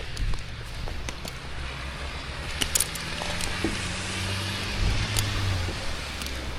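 A motor running steadily at low speed, with scattered sharp clicks and a few dull knocks over it.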